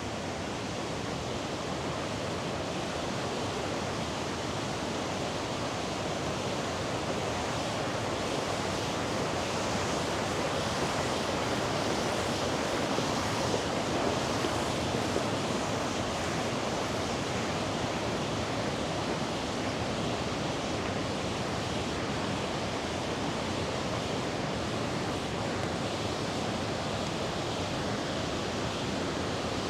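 River water rushing: a steady, unbroken wash of flowing water that swells a little about halfway through.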